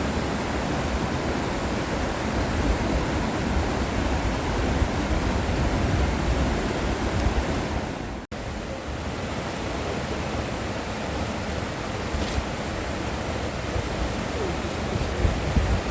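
Mountain valley stream rushing steadily. It breaks off in a brief dropout a little past halfway, then carries on.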